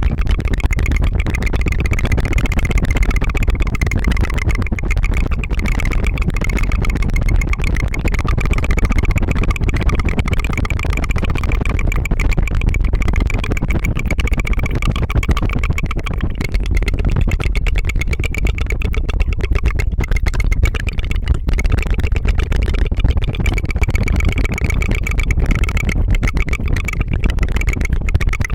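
ASMR tongue fluttering close to the microphone: a fast, continuous rattling trill at a steady level, buzzing like a small engine.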